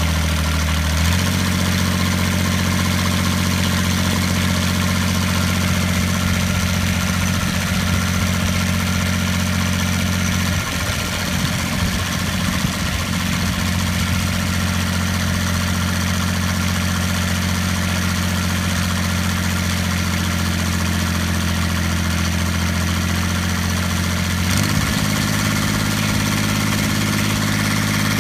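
Kubota diesel engine in a Kawasaki motorcycle being run up at standstill. Its revs step up about a second in and hold steady, drop back to a rougher, less even beat around eleven seconds in, and pick up again near the end.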